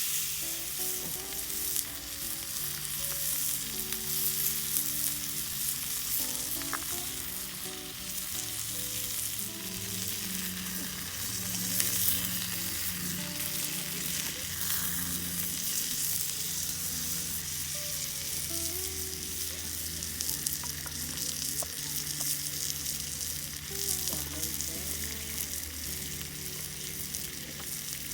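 Food sizzling and spitting in a hot pan over the fire: a steady, dense crackle.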